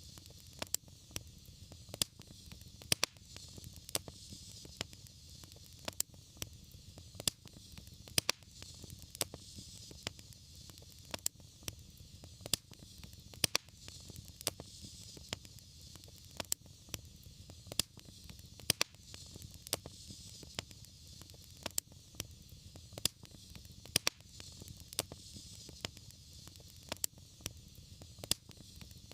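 Wood fire in a fireplace crackling, with frequent irregular sharp pops and snaps over a steady low rumble and hiss of the flames.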